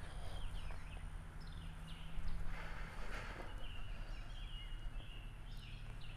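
Woodland birds calling: many short chirps and quick whistled notes, over a low steady outdoor background, with a brief rustle about two to three seconds in.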